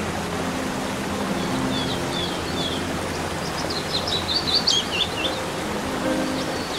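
Songbirds chirping: a run of quick, high, downward-gliding chirps from about a second and a half in until past the five-second mark, starting again near the end. Underneath is a steady, even hiss with soft held low notes.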